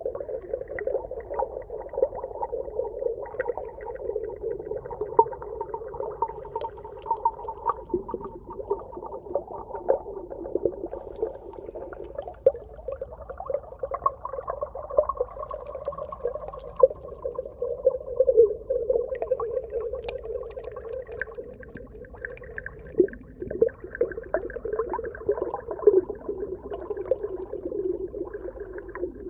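Underwater soundscape of marine animal calls: a steady mid-pitched din thick with short clicks and pops, with longer higher tones coming and going.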